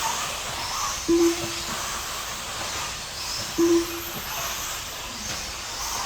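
Radio-controlled race track ambience: a steady hiss from the small trucks running. Two short, single-pitched beeps come about two and a half seconds apart.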